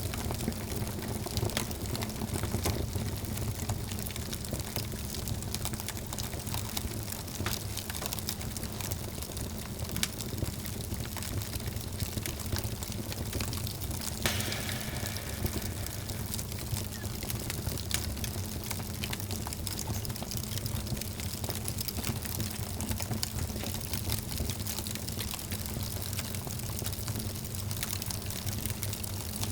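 Wood fire burning in a fireplace: a steady low rumble of flames with frequent irregular crackles and pops, one sharper pop about halfway through.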